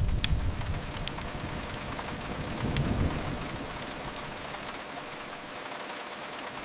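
Steady rain hiss with scattered sharp crackles from a wood fire. A low rumble fades away in the first second and swells briefly again about three seconds in.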